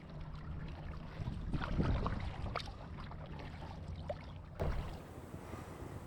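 Kayak paddling: paddle strokes in the water with small splashes and drips over a low rumble of wind on the microphone, and a single thump about four and a half seconds in.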